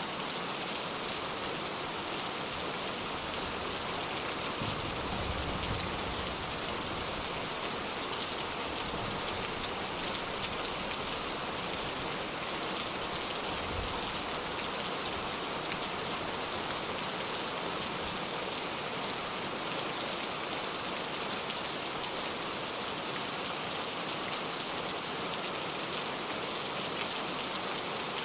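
Steady rain falling, an even hiss of dense raindrops, with a faint low rumble twice, about five seconds in and again near the middle.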